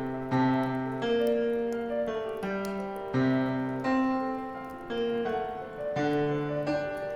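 Gentle piano playing a slow Christmas song, chords and melody notes struck about once a second and left to ring. Faint crackles of a bonfire sound under the piano.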